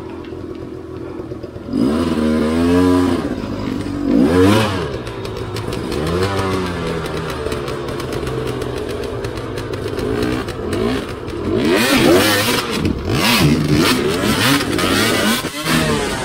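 Enduro dirt bike engines running, first steady at low revs, then revved up and down again and again in short throttle blips from about two seconds in. More than one bike is revving at once at times.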